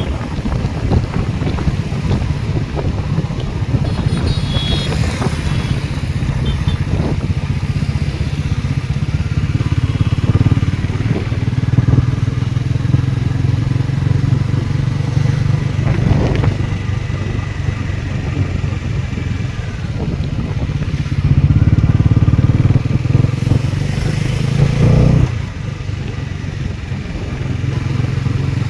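Motorcycle engine, likely a Bajaj Pulsar's single-cylinder, running steadily under way. It gets louder for a few seconds late on, then drops off suddenly as the throttle comes off.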